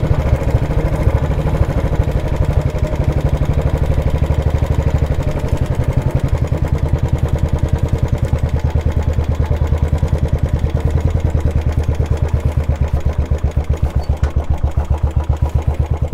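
Motorcycle engine running steadily at low revs with a fast, even exhaust beat.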